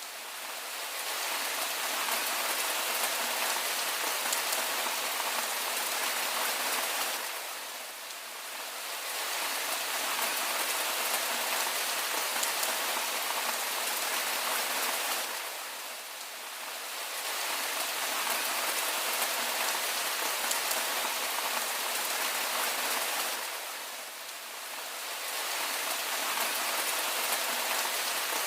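Steady rain falling, an even hiss that dips briefly in loudness about every eight seconds.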